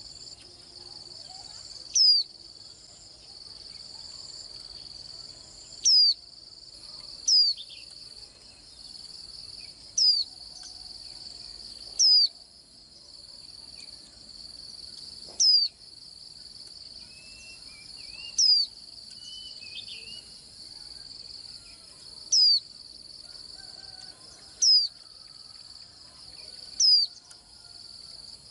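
White-eye calling with about ten short, sharp, high downward-sweeping chirps, one every two to four seconds, over a steady high-pitched insect buzz. A faint lower warble comes partway through.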